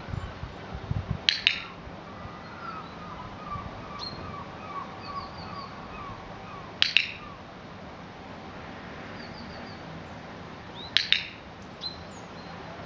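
Songbirds chirping and trilling, broken three times by a sharp double click, a few seconds apart: once about a second in, once around the middle and once near the end. A few low thumps in the first second.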